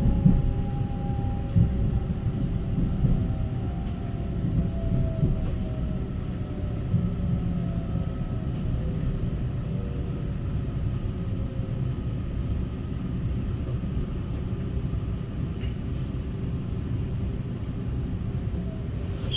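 EMU900 electric multiple unit heard from inside the car while running: a steady rumble of wheels on track, with the motor whine falling slowly in pitch over the first half as the train eases off.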